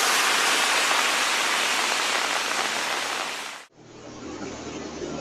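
Loud, steady rush of a flooded river's fast current. It cuts off abruptly about three and a half seconds in, and a quieter steady background noise follows.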